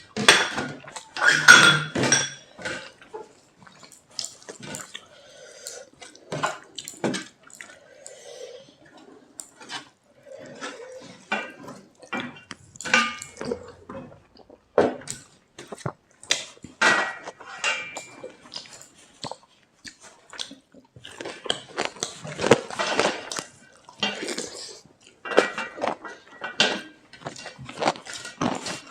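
Eating sounds from a meal of rice, dal and pakora: irregular clinks, knocks and scrapes of plates, bowls and cutlery, coming in clusters.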